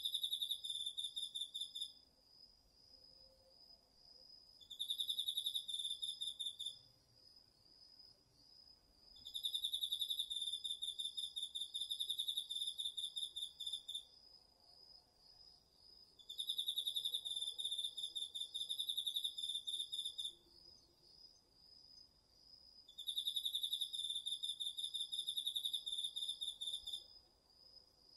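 Autumn insects, crickets among them, singing together: one keeps up a steady, high, fast-pulsed trill, while a louder, slightly lower trill comes in bouts of two to five seconds with short pauses between, about six times.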